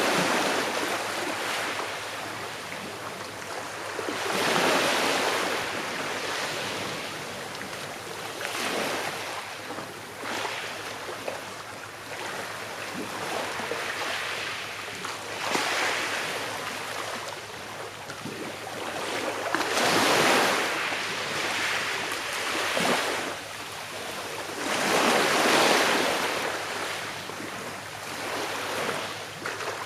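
Small sea waves breaking and washing on a shore, each swell of surf rising and falling away every four to five seconds over a steady hiss of water.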